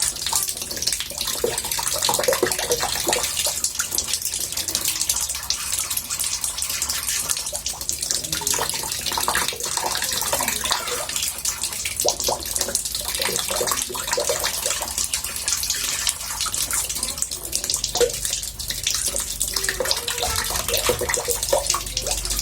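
Water running into a bathtub: a steady rushing splash, full of fast small splatters.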